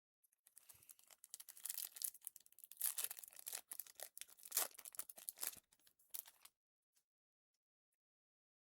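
A foil trading-card pack being torn open and its wrapper crinkled, a dense crackling rustle that stops about six and a half seconds in.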